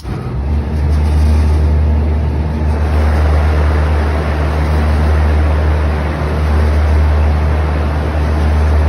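Newly replaced condenser fan motor on a commercial Carrier split condensing unit running, its fan blowing a steady rush of air over a deep, steady hum. It comes up loud suddenly at the start.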